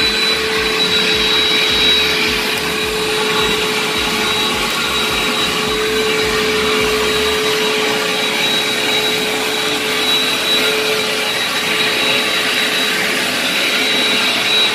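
ProTeam commercial backpack vacuum running steadily while vacuuming pet hair from carpet, a constant motor drone with a steady high whine over it.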